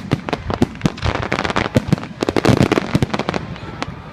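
Fireworks going off: a rapid, irregular string of sharp bangs and crackles, densest about two and a half seconds in and thinning near the end.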